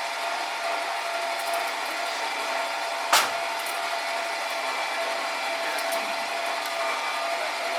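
A machine motor running with a steady whine throughout, with one sharp knock about three seconds in.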